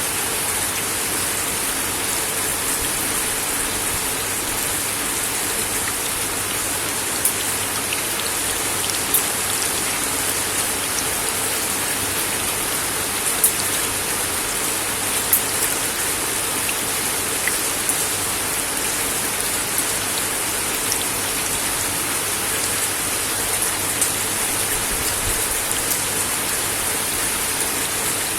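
Steady rain falling on a wooden deck, a continuous hiss with scattered sharper drop ticks standing out every few seconds.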